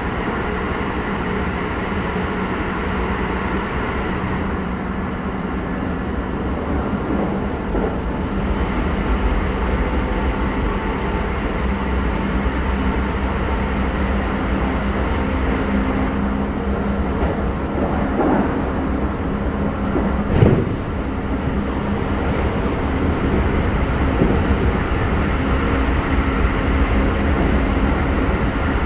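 Running noise inside a Keisei 3100-series electric train car at speed: a steady rumble of wheels on rail, with one sharp bang about twenty seconds in.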